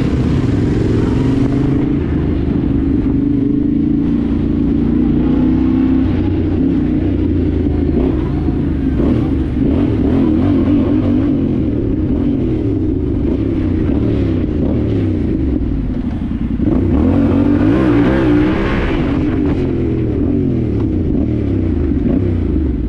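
Dirt bike engine running as it is ridden, its pitch rising and falling again and again as the throttle is opened and eased off, with a louder rev about three-quarters of the way through.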